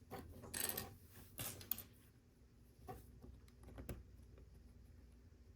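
Plastic LEGO bricks clicking and rattling as pieces are handled and picked through. A quick cluster of clicks comes in the first two seconds, then a few single clicks.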